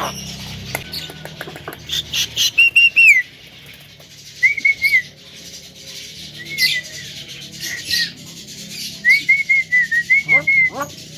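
Javan myna calling: a run of clear whistled notes mixed with clicks and chirps, then a few short calls that rise and fall in pitch near the end.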